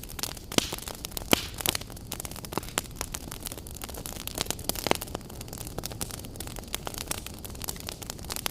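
Wood fire crackling in a fireplace: irregular sharp pops and snaps, several a second with a few louder ones, over a steady low hiss.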